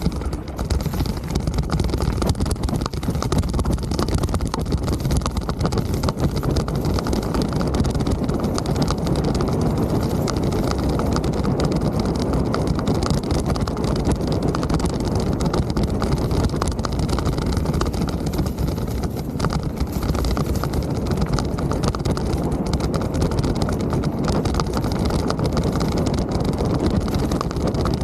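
Mountain bike riding noise: a steady low rumble of wind buffeting the microphone and tyres rolling over the trail, with many small rattles and knocks running through it.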